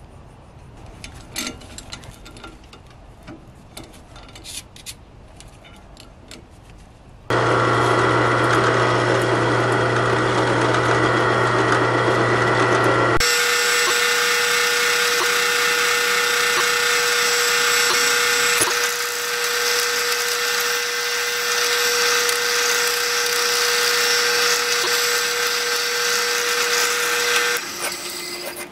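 Workshop power tools running. After a few quiet seconds of light clicks, a humming machine starts suddenly and runs for about six seconds. It then gives way to a higher, hissing tool with a steady whine that runs until near the end.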